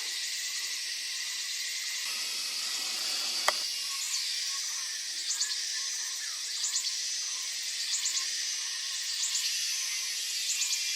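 Steady high-pitched chorus of insects in forest, with short pulsing calls repeating about every second and a half. A single sharp click comes about three and a half seconds in.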